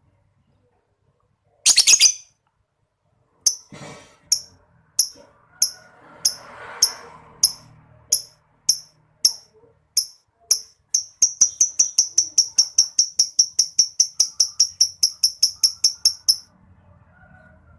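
Lovebird giving its 'ngetik' (typing) call, a string of short, sharp, high chirps. It opens with a loud, brief burst about two seconds in. The chirps then come about one every half second and speed up near the middle into a rapid run of roughly four a second before stopping.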